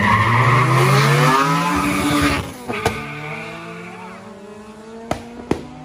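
Car engine accelerating hard, its pitch climbing steeply; after about two and a half seconds it drops away and a fainter engine note carries on, rising slowly. Two sharp clicks come near the end.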